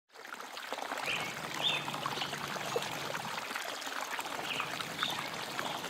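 Water trickling and running steadily in a stream, with a few short, high chirps over it.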